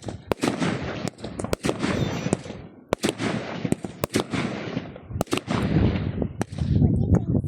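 Fireworks exploding: a rapid string of sharp bangs, about two a second, over a continuous crackle.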